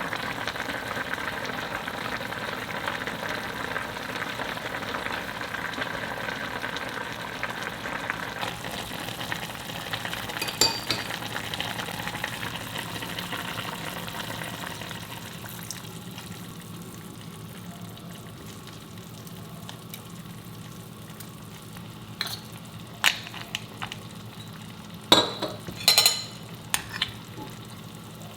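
Food sizzling as it fries in a pot and is stirred, a step in cooking kimchi tofu stew. The sizzle is louder for the first half and then settles lower, and a utensil clinks sharply against the pot several times near the end.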